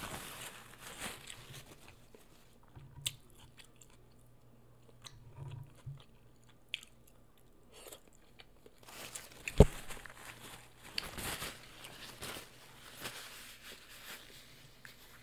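Close-miked chewing and biting of birria ramen, soft wet mouth sounds and small clicks in short spells, with one sharp click about ten seconds in.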